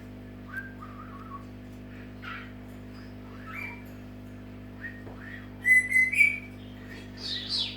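Senegal parrot calling with short whistles and chirps, scattered throughout, the loudest being a clear whistle run about three-quarters of the way through followed by a shriller call near the end.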